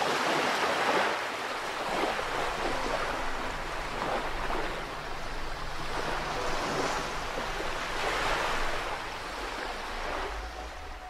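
Sea water washing and splashing, swelling in surges every two seconds or so.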